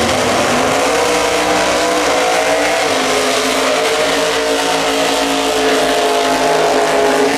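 Race car engine running hard at high revs, its pitch climbing over the first second and then holding nearly steady.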